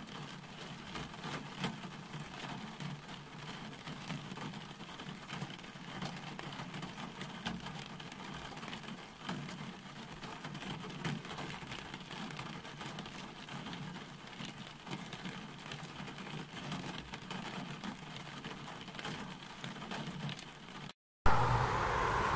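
Steady rain with many small drops tapping, over a low hum. Near the end it cuts suddenly to louder, steady road-traffic noise.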